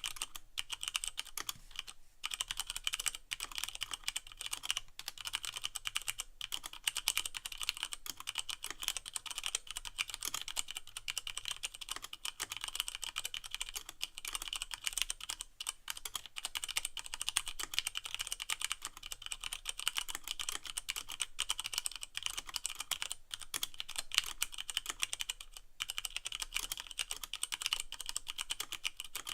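Fast, continuous typing on a Leopold FC660M mechanical keyboard with Cherry MX Brown switches and no O-rings, a dense stream of key clicks and clacks with only brief pauses.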